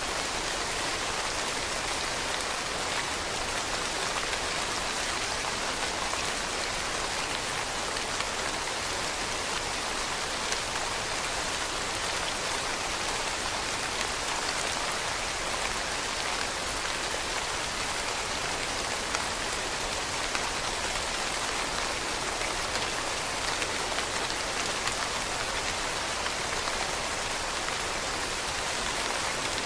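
Steady rain falling on leaves, an even hiss with many small drops pattering throughout.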